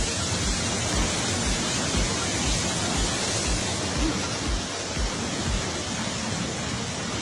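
Loud, steady rushing of fast-moving water, like a flood torrent. Background music with a steady low beat about twice a second runs underneath.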